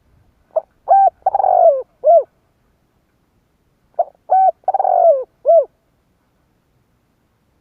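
Spotted dove cooing its song twice, about three and a half seconds apart. Each phrase is a short lead-in note, two coos, a longer falling croon and a final coo.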